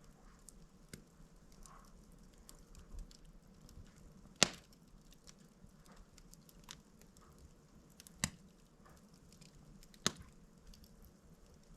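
A wood log burning slowly in a fireplace, crackling: three sharp pops, about four, eight and ten seconds in, with faint ticks and snaps between them.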